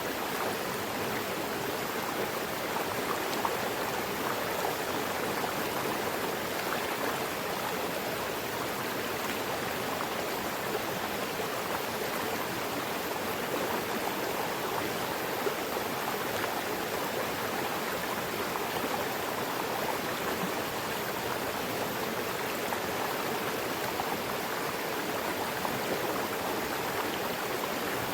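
Mountain river rushing steadily over rocks, an even rush of water with no change in level.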